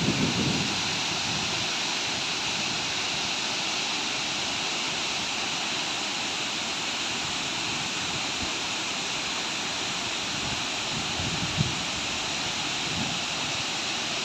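Wachirathan Falls, a waterfall, pouring with a steady, unbroken rush of falling water. A single brief thump comes about eleven and a half seconds in.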